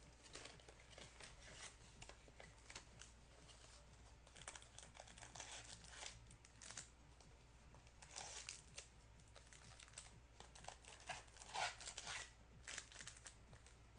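Faint tearing and crinkling of trading-card packaging as a mini box of cards is opened, with scattered small crackles throughout.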